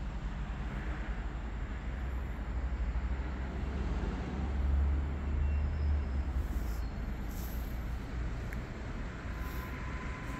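EN63B electric multiple unit approaching from a distance: a steady low rumble that swells slightly midway, with a thin steady whine coming in near the end.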